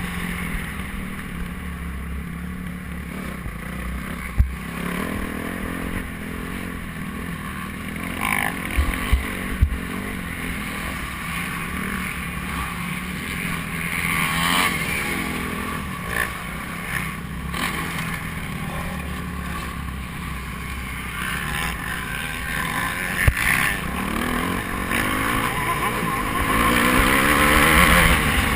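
Motocross bikes racing, their engines revving up and down and getting louder near the end, with low rumble and a few short knocks.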